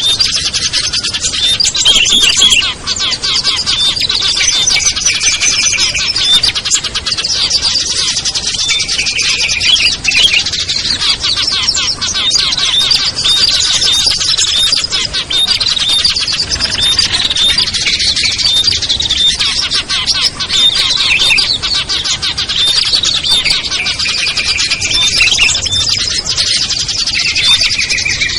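Dense, continuous chorus of many small songbirds chirping and calling over one another. It is a bird-lure recording that mixes small birds such as bulbuls and prinias to draw wild birds in.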